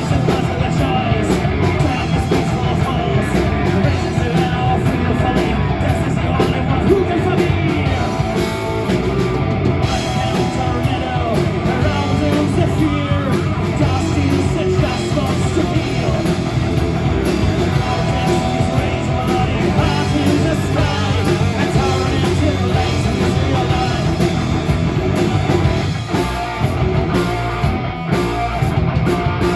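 Live rock band playing loudly, with singing, distorted electric guitar, bass and drum kit.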